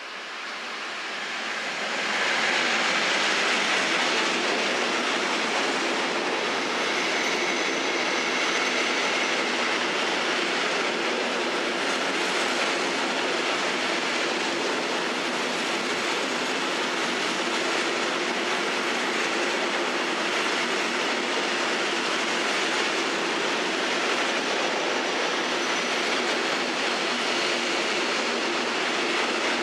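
Train passing through a station. Its noise swells over the first two seconds, then becomes a steady rush and rumble of wheels on rails, with faint high wheel squeal at times.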